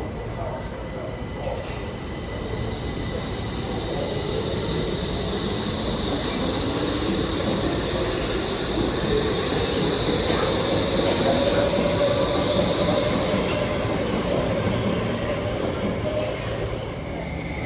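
Stockholm Metro train running on the track, with a steady high-pitched wheel squeal and a motor whine that rises in pitch as the sound grows louder, easing off near the end.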